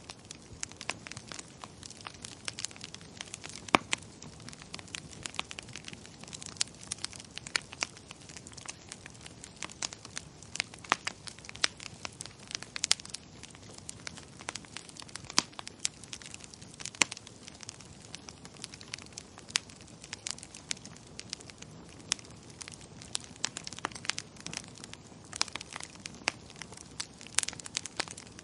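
Wood fire crackling in a fireplace: many irregular sharp pops and snaps over a low steady hiss.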